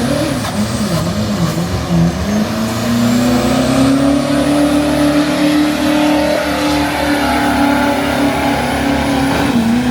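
Pickup truck engine held at high revs while pulling the sled in a truck pull: the revs climb about two seconds in, hold steady, and drop off just before the end.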